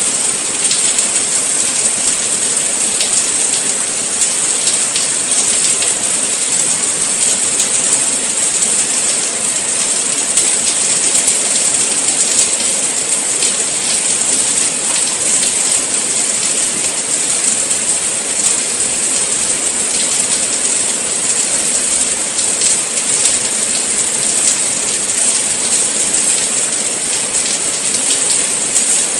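Steady rain falling: an even hiss with a faint patter of individual drops.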